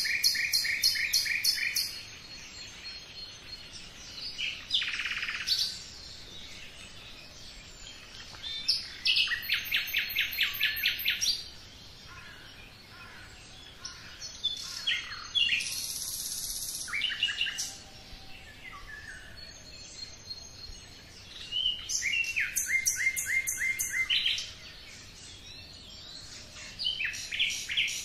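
Songbirds singing: short phrases of fast, evenly repeated high notes, each lasting about two seconds and coming every few seconds, with quieter chirps between them.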